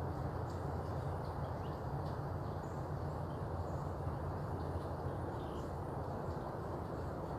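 Steady low rumble of distant freeway traffic, with faint short bird chirps scattered over it.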